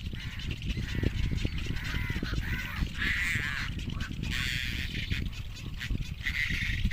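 Anhinga nestlings begging for food with a run of short, repeated honking calls, thickest in the middle and again near the end, over a low rumble.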